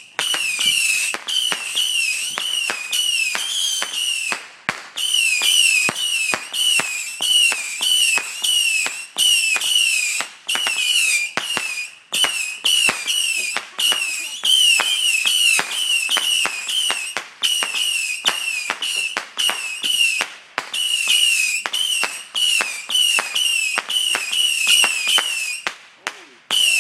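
Multi-shot whistling firework cake going off in a rapid string: shot after shot of a short, wavering high whistle, each broken by a sharp crack, with a few brief lulls and a last pause near the end.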